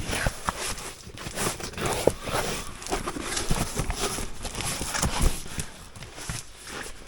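Irregular rustling and light knocks of gear and fabric being handled, with scattered small thumps.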